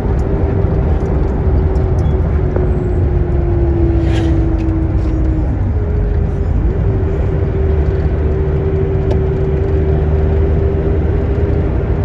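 A motor vehicle driving, with a steady low rumble and an engine hum that sinks slightly, drops away about five and a half seconds in, and comes back about a second later.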